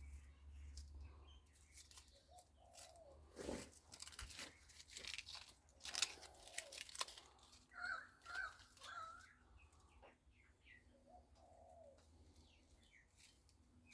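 Quiet background with birds chirping and calling. A cluster of short clicks and knocks falls in the middle, the loudest about six seconds in.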